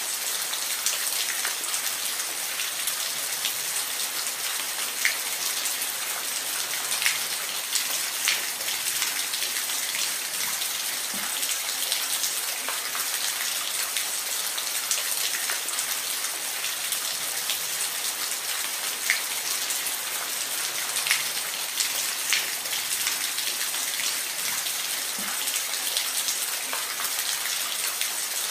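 Waterfall: steady noise of falling water, with scattered sharp drop-like ticks of splashing water.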